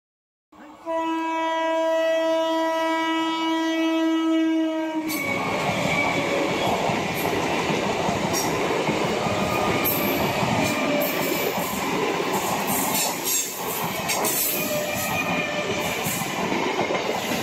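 EMU local train sounding one long, steady horn blast of about four and a half seconds as it approaches. It then rushes past at speed, with a loud rumble and its wheels clacking over the rail joints.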